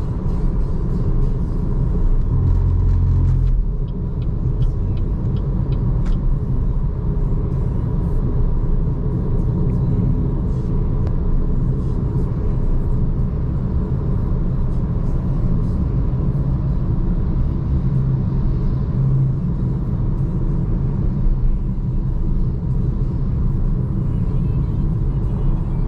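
Steady low road and tyre rumble of a BYD Seagull electric car cruising at expressway speed, with a faint steady high tone above it. The rumble is a little heavier for the first few seconds, then settles.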